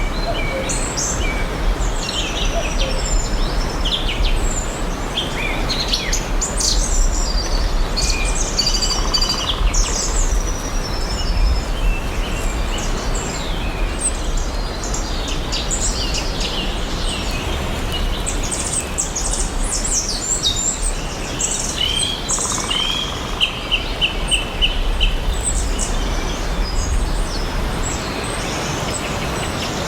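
Several songbirds chirping and singing over one another in a forest, with short chirps and whistles throughout. About two-thirds through, one bird gives a quick run of repeated notes. A steady background hiss and low rumble lie underneath.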